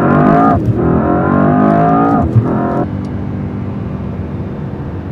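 Mercedes-AMG S63 E Performance's twin-turbo V8 accelerating hard, its pitch climbing, with quick upshifts about half a second in and about two seconds in; near three seconds it eases off to a quieter, steady run.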